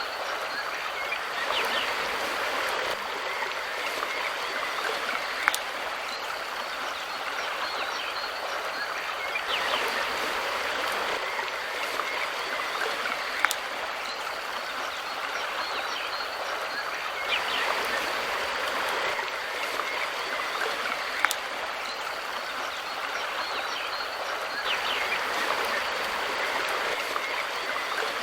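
Mountain river stream rushing steadily over rocks, swelling gently about every eight seconds. A single sharp tick recurs at the same interval.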